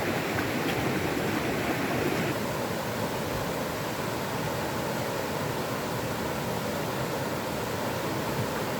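Steady rushing of flowing water. About two seconds in, the higher hiss drops away and the sound goes on lower and even.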